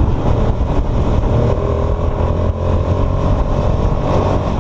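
Hyosung 250cc motorcycle's V-twin engine running steadily while riding, heard from on the bike with wind rushing over the microphone.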